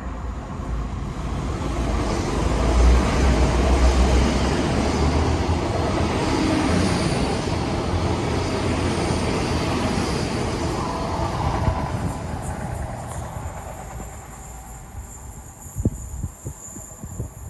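A train passing on the line. Its rumble builds to a peak about three seconds in, stays loud until about two-thirds of the way through, then fades away, with a few sharp clicks near the end.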